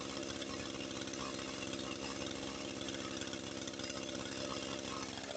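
Brush cutter's small engine running steadily at an even pitch.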